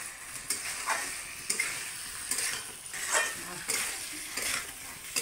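Chicken and masala sizzling in a metal kadhai while a spoon stirs and scrapes through it, a stroke every half second to a second over a steady frying hiss. This is the dry-frying (bhuna) stage, before water is added.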